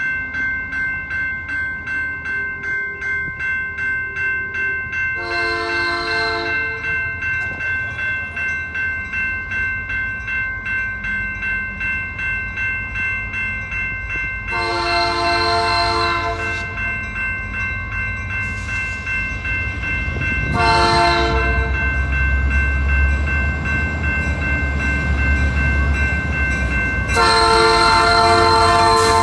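CN diesel locomotive horn sounding the grade-crossing signal of two long blasts, a short one and a long one, over a railway bell ringing steadily about twice a second. The locomotive's engine rumble grows louder in the second half.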